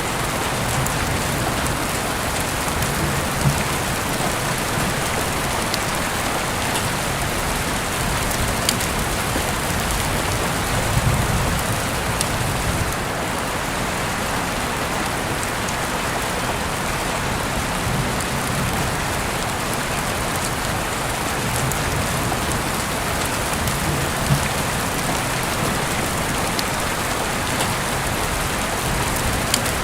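Heavy rain falling steadily, heard through an open window, with a few brief louder drips or drop impacts scattered through it.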